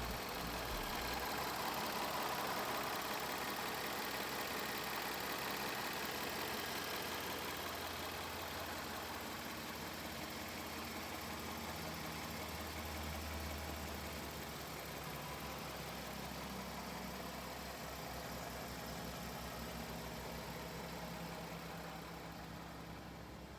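Jaguar F-Type S's 3.0-litre supercharged V6 running steadily, with a low hum that shifts slightly about halfway through and a gradual drop in level.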